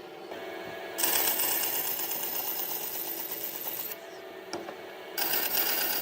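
A power tool working wood, with a rapid mechanical rattle. The sound changes abruptly about a second in, again near four seconds and about five seconds in, as one clip gives way to the next.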